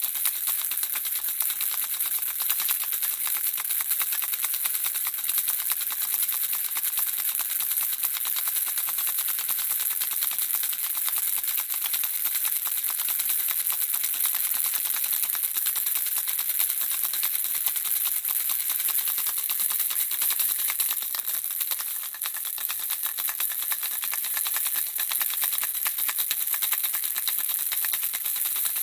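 Handheld baby rattle shaken continuously, the small pellets inside clattering in a dense, steady stream of rapid tiny clicks, briefly a little softer about 22 seconds in.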